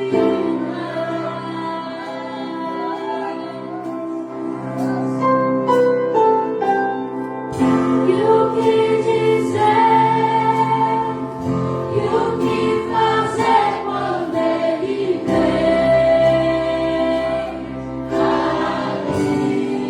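Orchestra of strings and wind instruments playing a worship piece, with a choir singing.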